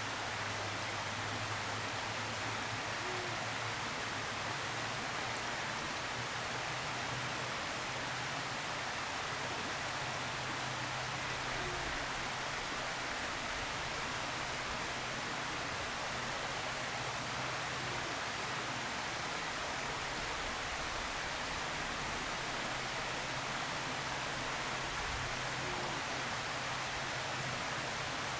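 Steady, even rushing noise with no distinct events, and a faint low hum that comes and goes.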